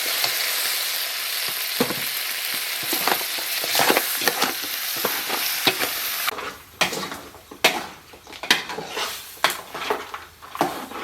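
Food sizzling in a hot pan while being stirred, with a utensil scraping and knocking against the pan. About six seconds in, the steady sizzle cuts off abruptly, leaving only separate scraping and clinking strokes.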